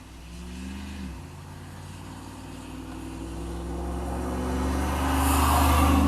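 Motor vehicle engine and tyre noise. The engine pitch briefly rises and drops about a second in, then the noise swells steadily louder to its loudest near the end.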